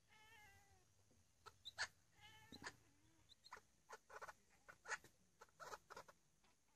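Burmese cat chattering at a bird: two wavering, bleating calls, one at the start and one about two seconds in, followed by a run of quick, sharp clicks.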